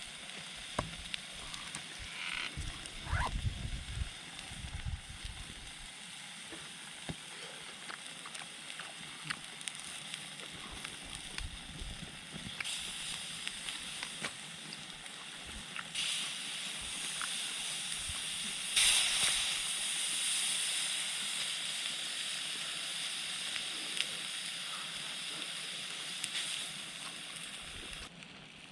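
Seawater sloshing and waves washing in at the shore, swelling louder a few times, with small scattered clicks.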